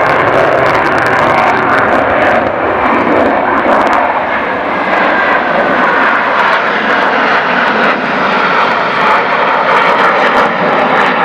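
Aircraft flying over, its engine noise loud and steady.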